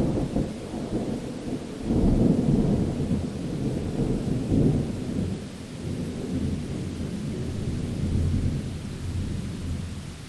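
Thunder during a rainstorm: a sudden crack, then a long low rolling rumble that swells twice and dies away near the end, over steady rain.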